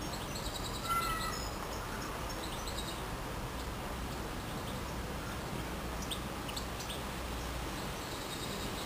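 Outdoor ambience with a steady hiss and low rumble. Small birds chirp briefly about a second in and again around six to seven seconds.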